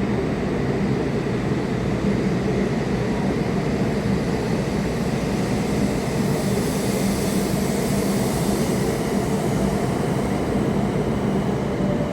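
Shinkansen train running past the platform, a steady rumble with a high-pitched rushing hiss that swells and fades around the middle.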